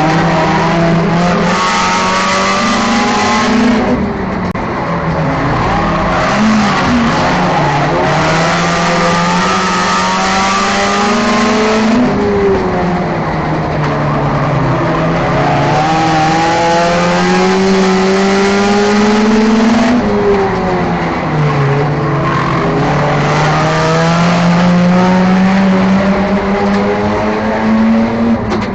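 A 4/6-cylinder enduro race car's engine at racing speed, climbing in pitch under acceleration and then dropping sharply as the throttle is lifted, four times in a regular lap rhythm.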